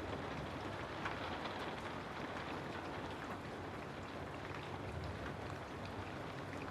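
Steady rainfall with scattered individual drops ticking on a surface.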